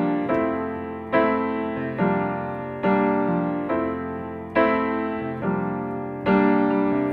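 Piano intro to a song: sustained chords struck one after another, each fading before the next, roughly one chord per second.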